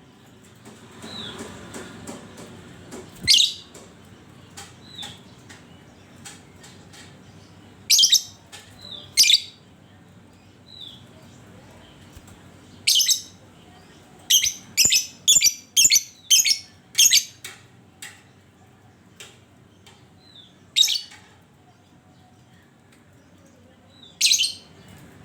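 Lovebird calling with shrill, sharp single screeches spaced a few seconds apart, and a quicker run of about seven in a row around the middle. Softer short chirps come in between.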